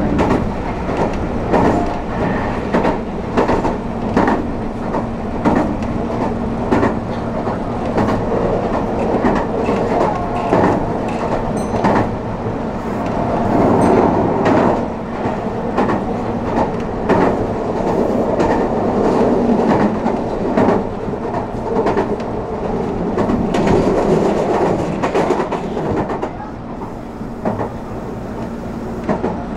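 Meitetsu electric train running, its wheels clicking over rail joints over a steady low hum, a little quieter near the end.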